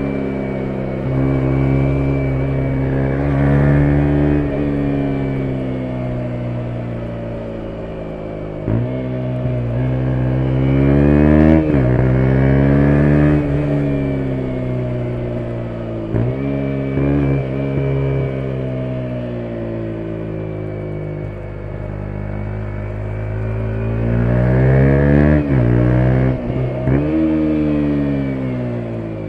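2017 KTM 125 Duke's single-cylinder four-stroke engine running under way, its pitch climbing and falling again and again as the bike speeds up and slows, with several short sudden breaks where the revs jump, typical of gear changes.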